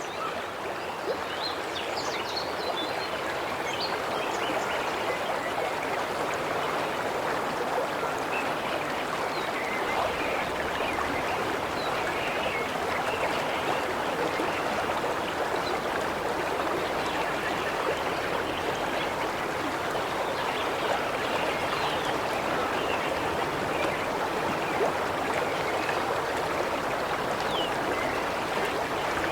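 River water running steadily over stones.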